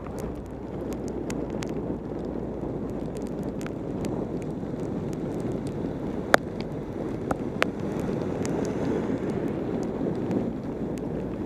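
Wind rushing over a helmet-mounted camera's microphone on a fast bicycle descent in heavy rain, with the hiss of tyres on the wet road. Scattered sharp ticks come through, the loudest about six seconds in.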